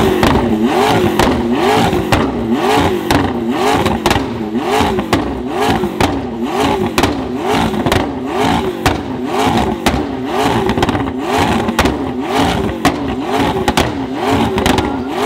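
McLaren twin-turbo V8 revved in quick repeated throttle blips, its pitch rising and falling over and over about one and a half times a second, with sharp crackles between the blips.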